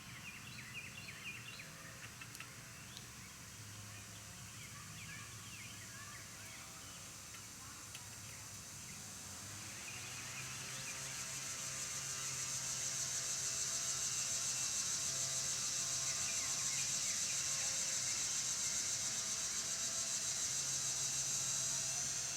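Backyard ambience: small birds chirping in short calls, then about halfway in a high, steady buzzing drone swells up and becomes the loudest sound, over a faint low hum.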